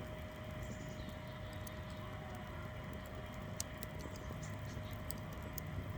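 Wood fire crackling in a fire pit: scattered sharp pops and snaps, some a few in quick succession, over a low steady rumble.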